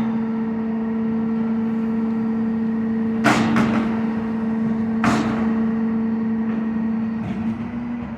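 McNeilus rear-loader garbage truck running with a steady hum, and a metal dumpster banging loudly twice, about three and five seconds in. The hum drops in pitch right at the end.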